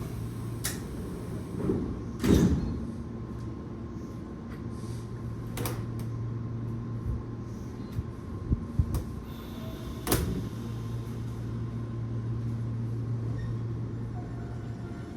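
Tobu Tojo Line electric train standing at the platform with a steady low hum, broken by several sharp knocks and clunks, the loudest about two seconds in.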